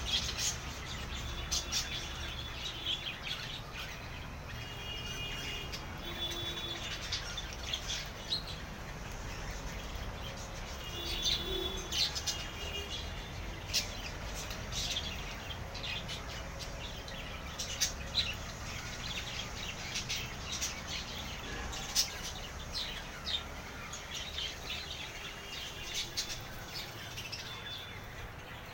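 A flock of budgerigars chirping and chattering, with many short calls overlapping throughout.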